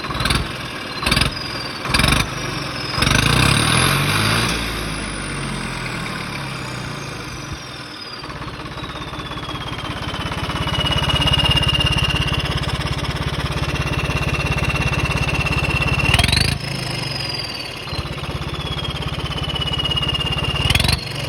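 Swaraj tractor's turbocharged diesel engine revved in short blips over its idle, three quick ones early, a longer one about four seconds in, and two more near the end. With each rev a high turbo whistle rises sharply, then glides slowly down as the turbo spools down while the engine settles back to idle.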